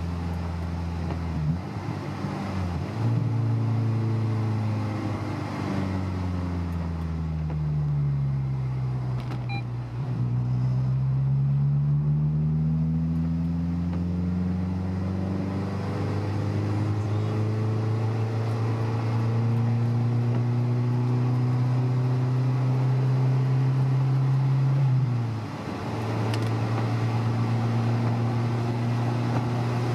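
Honda S2000's four-cylinder engine heard from inside the car. Its note falls for several seconds as the car slows, then climbs again under acceleration and holds steady, with a sudden brief dip about 25 seconds in.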